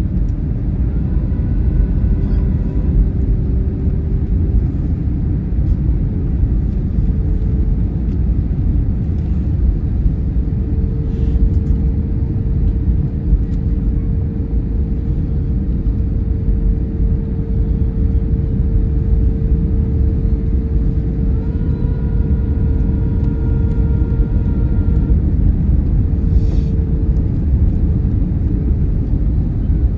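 Airliner on landing approach: a loud, steady low rumble, with a steady engine tone through the middle. Two fainter, higher tones come in briefly near the start and about two-thirds of the way through.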